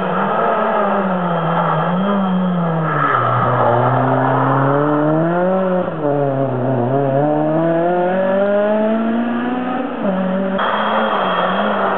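Racing car engine revving up and down through a drift, its pitch rising and falling every second or two. The sound changes abruptly near the end.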